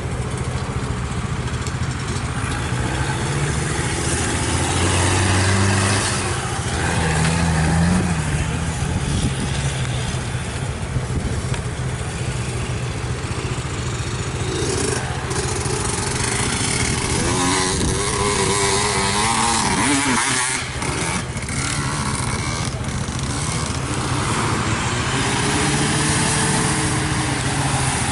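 Jeep and motorcycle engines running steadily in a slow procession, with vehicles passing close by a few seconds in and again near the end, their pitch rising and falling as they go past.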